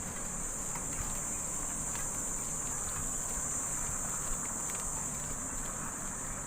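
Steady, high-pitched drone of an insect chorus, over a low rumble of wind and riding noise with a few faint clicks.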